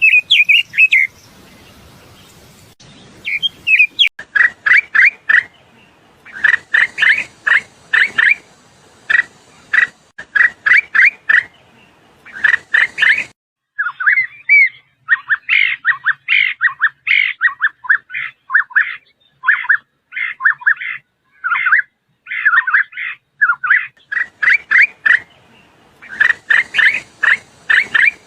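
Songbirds singing in many short, repeated chirping phrases. The background hiss drops out abruptly about halfway through and returns near the end.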